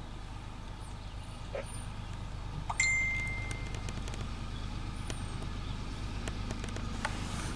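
Steady low rumble of an approaching CSX diesel-hauled empty autorack train. About three seconds in comes a sudden metallic ring, a single high tone that fades within a second.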